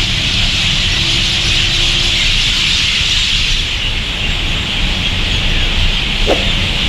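A large flock of swallows chattering as a dense, steady chorus, over a low rumble.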